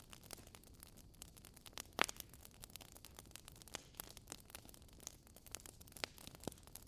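Burning logs in a fireplace crackling, with irregular sharp pops and snaps over a soft hiss; the loudest pop comes about two seconds in.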